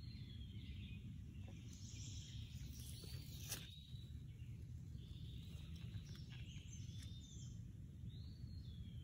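Birds singing, with a repeated arched call at the start and again near the end among other chirps, over a steady low rumble. A single sharp click about three and a half seconds in.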